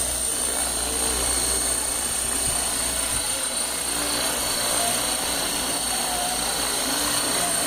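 HK-450 GT electric RC helicopter flying: a steady high whine from the motor and gears over the rotor noise, its pitch shifting slightly now and then.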